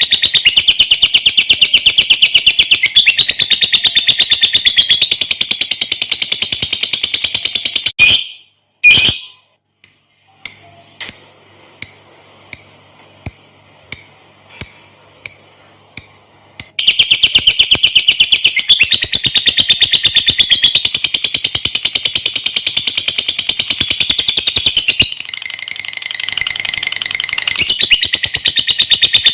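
Lovebird giving its long chattering trill (ngekek panjang), a very fast, even run of high chirps. About eight seconds in it breaks into a string of separate short calls about half a second apart, then goes back into the long trill about seventeen seconds in.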